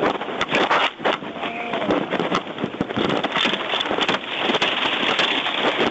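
Fire in a burning semi truck crackling and popping, with many sharp cracks over a steady rushing noise.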